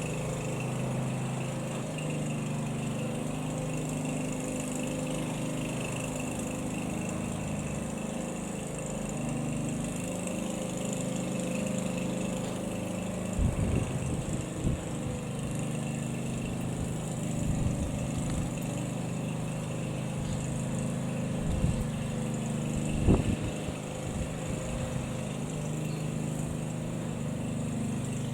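Single-engine piston light aircraft droning steadily as its propeller engine runs overhead. A few dull low thumps come through about halfway and again near the end.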